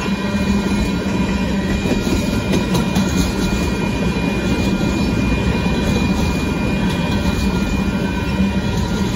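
A freight train of tank cars rolling steadily past at close range: a continuous loud rumble of steel wheels on rail.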